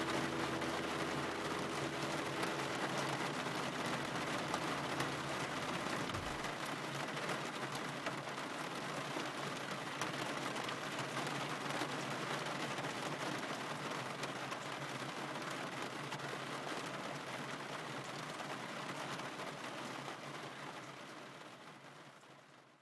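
Steady rain noise, dotted with faint ticks of drops, fading out to silence over the last few seconds.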